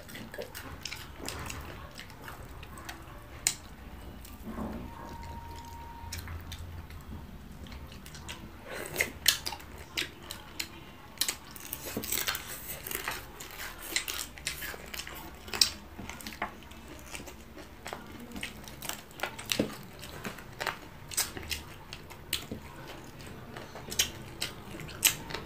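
Close-up mukbang eating sounds: chewing, wet lip smacks and finger-sucking as fried tilapia and vegetables are eaten by hand, with many short sharp clicks and smacks scattered throughout.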